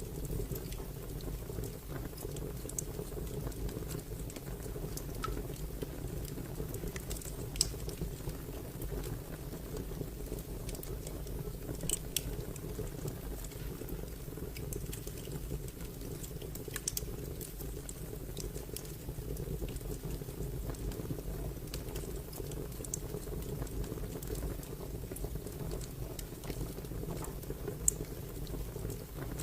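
Fire crackling: a steady low rumble with scattered small pops and a handful of louder sharp cracks.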